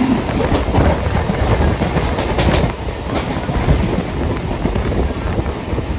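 A passenger train passing close by on the next track, heard from the open door of a moving train: a steady rumble of coaches going by, with wheels clattering over rail joints and a cluster of sharp clacks about two and a half seconds in.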